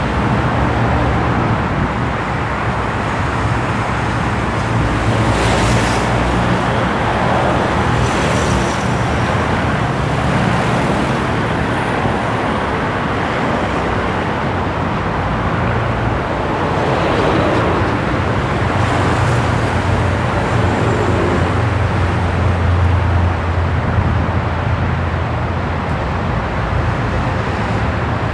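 Steady road traffic noise with a low rumble, with vehicles swelling up and fading as they pass several times.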